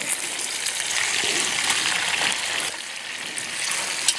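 Chicken pieces frying in a 14-inch deep cast iron Dutch oven: a steady sizzle that swells for a couple of seconds and then eases, with a few light clicks of metal tongs as the pieces are turned.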